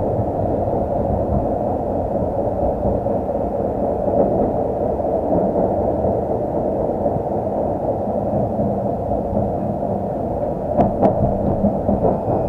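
Tram running between stops, heard from inside the car: a steady rumble of wheels on rails and running gear, with a couple of sharp clacks near the end.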